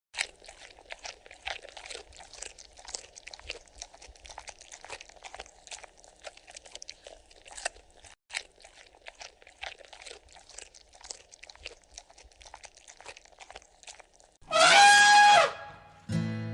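Irregular crunching chewing sounds for about fourteen seconds, then a loud animal call, about a second long, falling in pitch.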